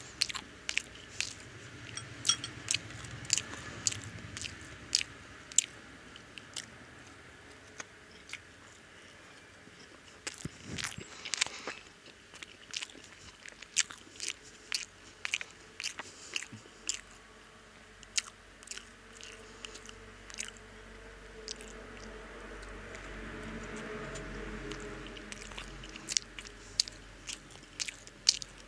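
Close-up eating sounds of egg toast being bitten and chewed: crunches and wet mouth clicks, coming thickly at first, easing off for several seconds past the middle, then picking up again near the end.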